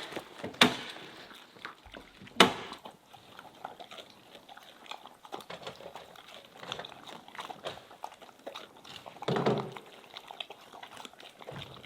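Dogs crunching and chewing prawn heads: many small crackling clicks, with two sharp knocks in the first few seconds and a louder scuffling noise about nine seconds in.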